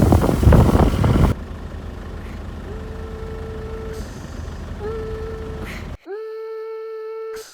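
Loud rumbling noise for about the first second, then after a sudden change, a vehicle horn sounds three times, each a steady held note about a second long.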